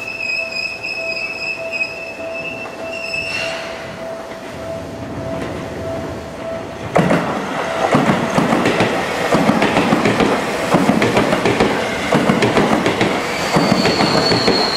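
Seibu 30000 series electric train approaching, then passing close from about seven seconds in, its wheels clattering rhythmically over rail joints; a high tone falls in pitch near the end as it slows to stop at the station. A level-crossing warning bell rings steadily, pulsing about twice a second.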